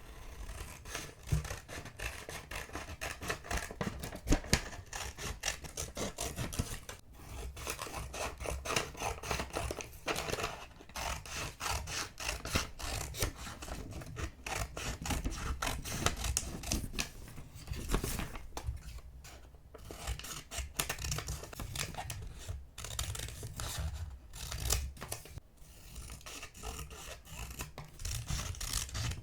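Close-up paper-craft sounds: paper being handled and worked in quick, irregular scratchy strokes, with soft knocks on the work surface.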